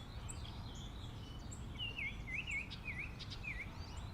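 Faint bird calls over a low hiss: a quick series of about five short down-and-up chirps starting about two seconds in, with a few fainter, higher ticks.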